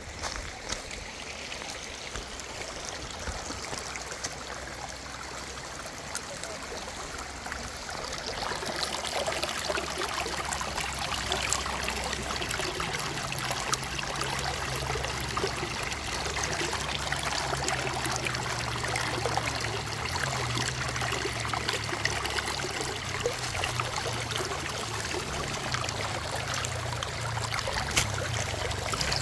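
A mountain stream running, a steady rush that grows louder about eight seconds in.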